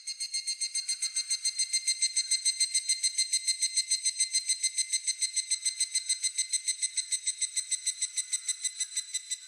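Higurashi (evening cicada) calling: a rapid, evenly pulsed, ringing trill that swells in at the start, holds steady, and tails off near the end.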